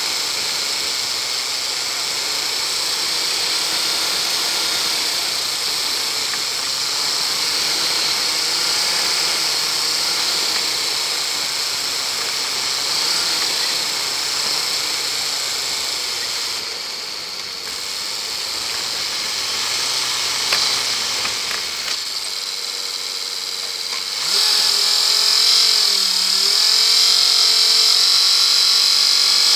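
Land Rover engine running as it drives along a rough woodland track, its note rising and falling with the throttle under a steady hiss of wind and road noise. About three quarters of the way through, the sound gets louder and the low engine note drops away.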